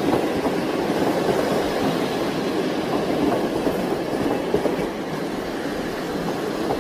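A train running on its track: a steady rattling clatter that eases slightly near the end.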